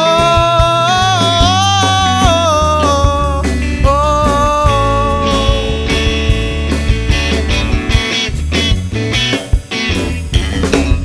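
Live rock band playing an instrumental passage between sung lines: a sustained lead melody with smooth pitch bends over bass and drums, the lead line dropping out about six seconds in while the band plays on.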